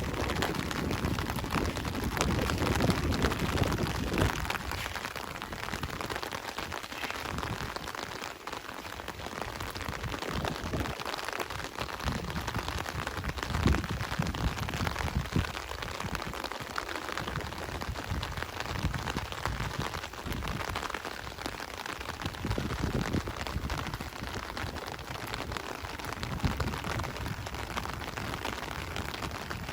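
Steady rain falling, an even hiss, with irregular low thumps throughout and a heavier low rumble during the first four seconds.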